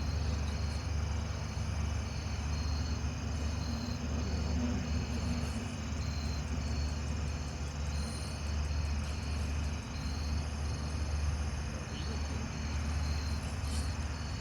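Crickets chirping in short, evenly pitched pulses over a steady low hum.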